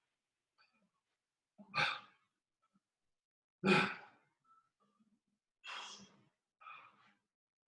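A person breathing out hard in short, forceful exhales, four of them roughly every one to two seconds, the second the loudest: effortful breathing from exertion during a leg-raise exercise.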